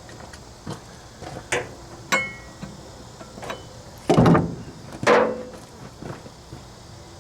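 Scattered metallic clanks and knocks from tools and mower parts being handled. One has a brief metallic ring about two seconds in, and two heavier clunks come about four and five seconds in.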